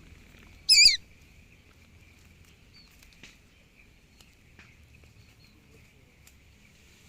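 A single loud, wavering bird squawk lasting about a third of a second, less than a second in. After it come a few faint scattered chirps and ticks over a steady high-pitched hum.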